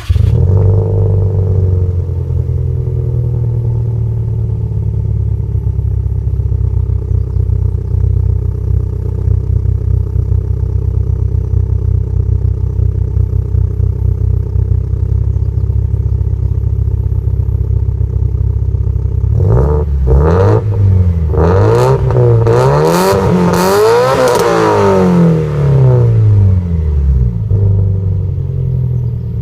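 Subaru Impreza WRX STI's turbocharged flat-four boxer engine through an aftermarket exhaust muffler. It fires up at the start with a brief high idle that settles into a steady idle. About twenty seconds in comes a run of quick throttle blips, revs rising and falling for several seconds, before it drops back to idle.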